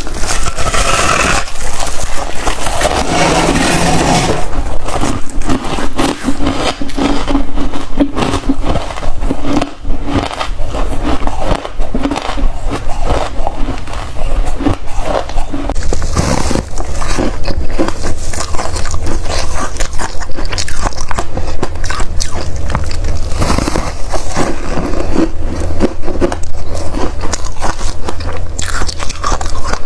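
Close-up biting and chewing of crunchy freezer frost ice: continuous loud crunching and crackling, one bite after another.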